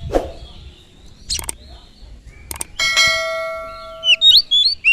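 A few sharp clicks, then a single bell-like chime about three seconds in that rings and fades over about a second and a half. Near the end an oriental magpie-robin (kacer) starts singing loud, quickly sliding whistled notes.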